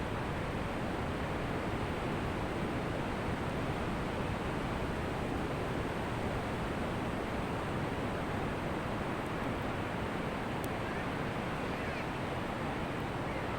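Ocean waves washing on a beach as a steady, even wash of noise, with no single wave standing out.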